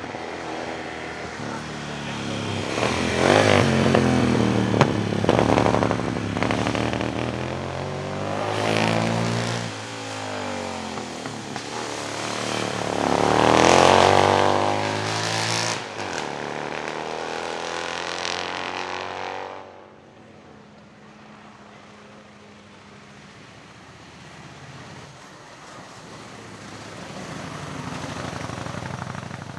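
Vintage racing car engine revving hard under acceleration, its pitch climbing and dropping back with each gear change. It is loudest as it passes close, once early and again about halfway. The sound drops away abruptly about two-thirds through, and a quieter engine note swells again near the end.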